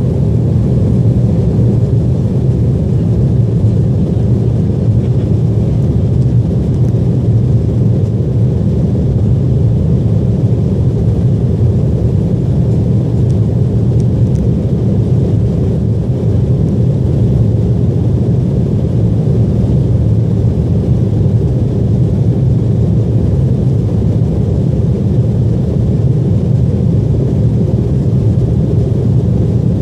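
Passenger airliner taking off: a steady, loud low rumble of jet engines and rushing air that holds even throughout.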